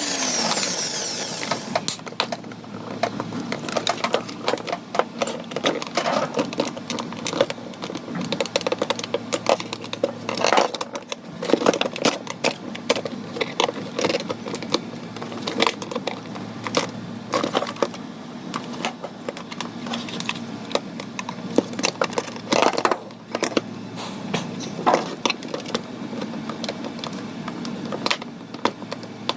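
An electric screwdriver or small drill winds down in the first second or two. Then comes a long run of irregular small clicks and knocks: plastic toy parts and small pieces being handled while the toy is taken apart.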